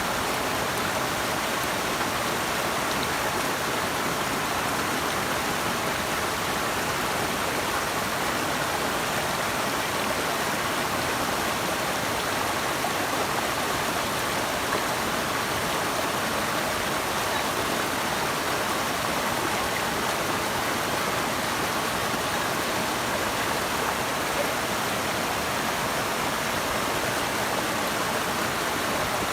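Running water of a river or waterfall rushing steadily, an even hiss without a break.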